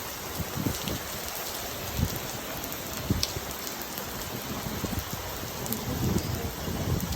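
Heavy thunderstorm rain pouring down steadily, with irregular low thumps and a few sharp drop ticks.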